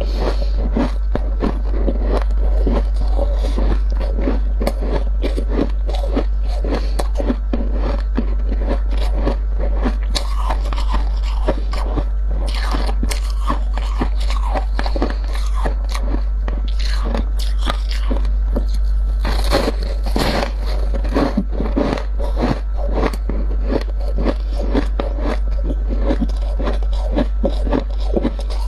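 Dry freezer frost being scraped off by hand and crunched in the mouth: a dense, unbroken run of crunches and scrapes. A steady low hum lies underneath.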